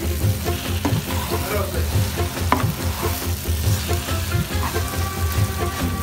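Beef pieces frying and sizzling in oil in a nonstick pan, stirred with a metal spoon, with a couple of sharp clicks of the spoon against the pan.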